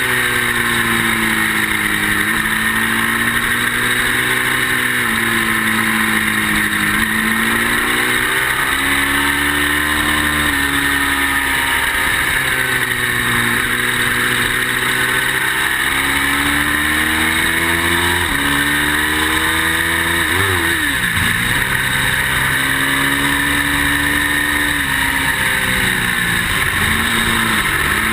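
Ducati motorcycle's twin-cylinder engine at track speed, its pitch repeatedly climbing under acceleration and dropping off into corners, with quick blipped downshifts about twenty seconds in and again near the end. Steady wind rush runs under the engine.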